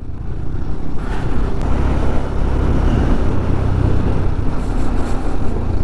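Honda X-Blade motorcycle running steadily under way, its engine rumble mixed with wind and road noise on the rider's microphone.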